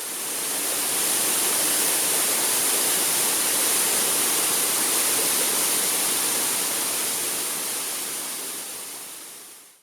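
Waterfall rushing as a steady, even roar of falling water, fading in at the start and fading out over the last few seconds.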